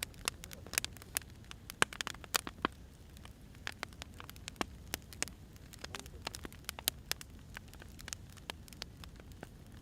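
Burning firewood crackling: irregular sharp pops and snaps over a low steady hiss, loudest about two seconds in.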